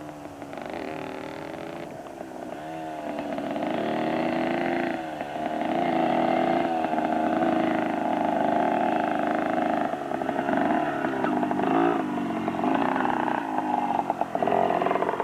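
Motorcycle engine running under way, its pitch rising and falling with the throttle. It grows louder over the first several seconds, then holds.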